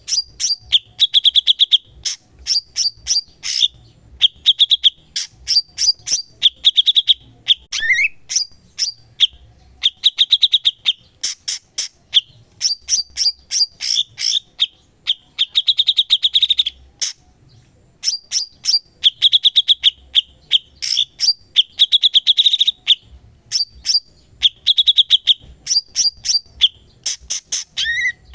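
Cucak cungkok singing steadily in rapid chattering phrases: fast trills and sharp chips repeated about every second or two, with one brief pause about two-thirds of the way in.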